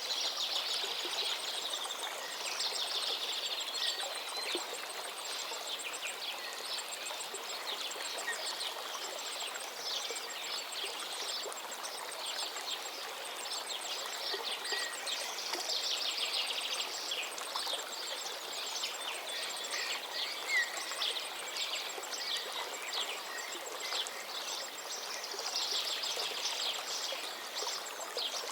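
Forest river flowing steadily, with songbirds singing over it. Bursts of fast, trilled song come and go, and a thin, rapid, high ticking runs through most of it.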